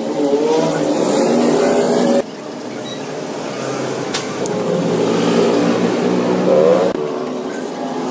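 A motor running with a steady hum whose pitch wavers. The sound changes abruptly about two seconds in and again near the end, as if the clip is cut between takes.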